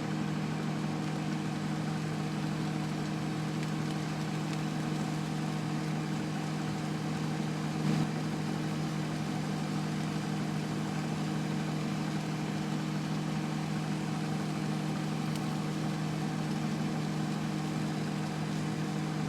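Microwave oven running with a steady electrical hum, with one short crack about eight seconds in.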